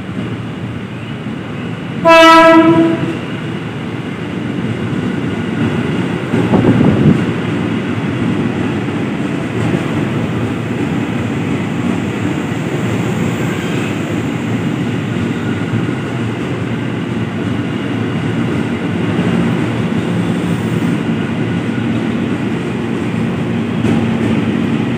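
KRL Commuter Line electric train sounding one horn blast of about a second as it pulls into the platform. A louder rumble comes about six seconds in, then the steady rolling rumble and clatter of its wheels on the rails as the cars pass.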